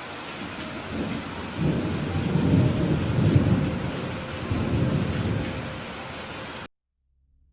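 Steady rain with a long rolling rumble of thunder that builds about a second in and slowly eases off. The sound cuts off abruptly near the end, leaving silence.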